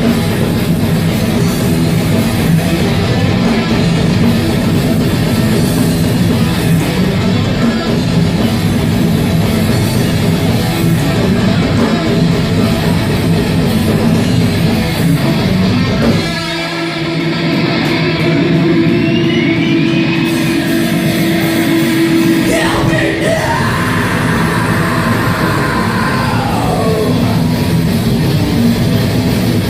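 A live heavy rock band playing loud distorted electric guitars and drums. About halfway the drums drop out, leaving a single held guitar note with sliding pitch bends over it, and the full band crashes back in a few seconds later.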